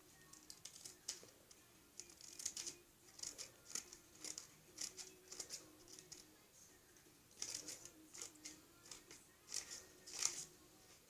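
Scissors snipping into folded paper: faint, short runs of quick snips with brief pauses between them, as slits are cut into a paper airplane.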